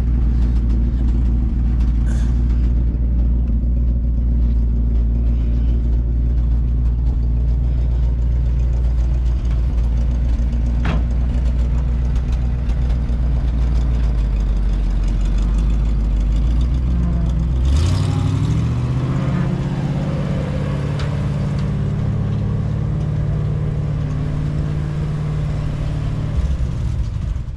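Heavy farm machine's diesel engine running steadily as it drives forward. About 18 seconds in, the engine note rises and holds at the higher speed, with a short hiss.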